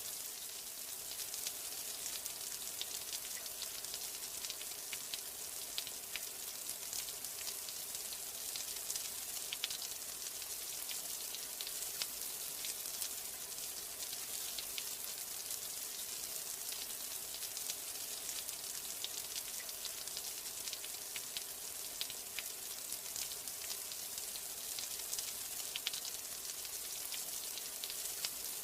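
Steady rain, a continuous hiss with many small sharp drop ticks throughout.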